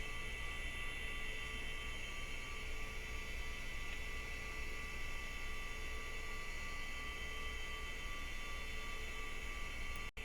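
Steady electrical hum with a few faint constant high whining tones, the background noise of a running PC and its surroundings, with no clicks or drive seeks. It drops out for an instant near the end.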